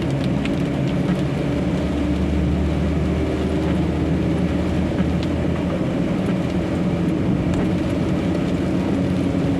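Steady drone of a semi-truck's diesel engine and road noise, heard from inside the cab while driving on a highway.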